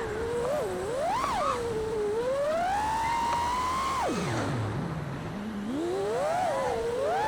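5-inch FPV quadcopter's brushless motors (T-Motor Pacer 2306 1750kv) whining, the pitch rising and falling with throttle. About four seconds in the pitch drops sharply to a low hum as the throttle is chopped, then climbs back up about two seconds later.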